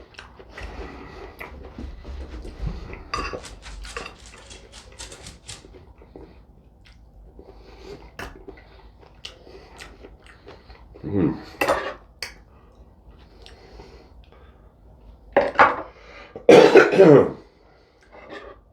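Knife and fork clinking and scraping against a plate while steak is cut, a run of sharp clicks in the first few seconds. A few loud coughs break in past the middle and near the end.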